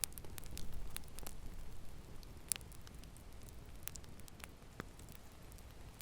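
Fire in a fireplace crackling: irregular sharp pops and snaps over a low steady rumble of flames, with one louder snap about two and a half seconds in.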